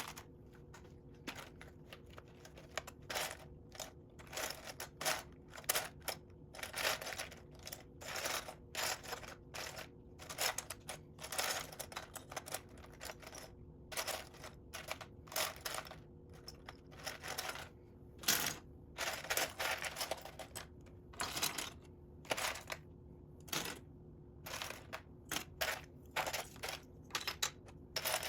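Small plastic Lego pieces clicking and rattling against one another as a pile of loose bricks is rummaged through by hand, in a quick, irregular patter of clicks.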